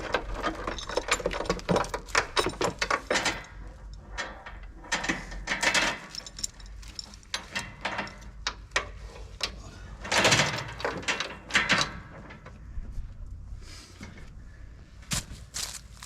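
Irregular metallic clanks, rattles and knocks of hardware being handled, in uneven clusters that are loudest about ten seconds in.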